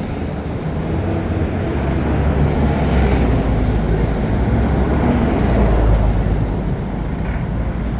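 A heavy vehicle passing, its deep rumble swelling over a few seconds and then easing off, over a background of city traffic.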